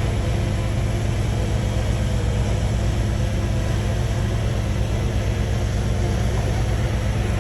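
Heavy diesel engine of earthmoving machinery running steadily: a low, even rumble that holds one pitch throughout.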